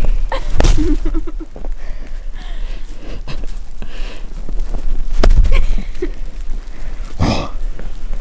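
Several sharp knocks and thumps over a constant low rumble, with a short vocal sound about a second in.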